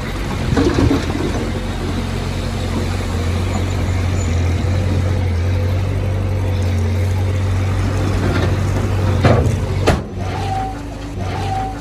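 Heavy diesel engine of earthmoving equipment running steadily with a deep rumble. Near the end come a couple of sharp knocks, then the engine drops lower and two short beeps sound about a second apart.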